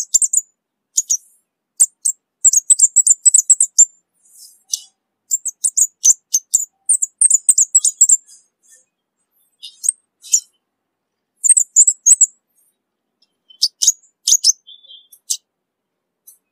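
Orange-bellied flowerpecker calling: quick runs of very high, thin chips and ticks, coming in bursts that thin out near the end.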